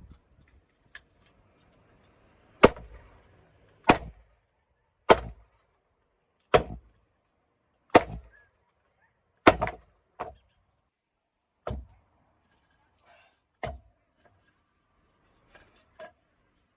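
Firewood being split by hand: a blade chops into wood in about nine sharp, separate strikes, roughly one every second and a half.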